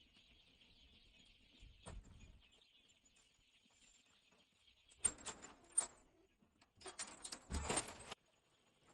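Chicks peeping faintly, then two bursts of rustling and scratching, like birds moving in litter or being handled.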